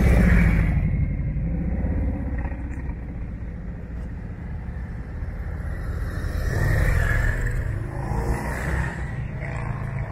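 Motorcycle engines running as bikes pull away and pass. The sound is loudest at the start, fades, and swells again about seven seconds in as another bike goes by.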